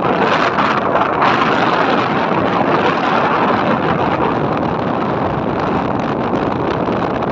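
Steady wind rushing over the microphone of a moving motorcycle, with road and engine noise beneath it.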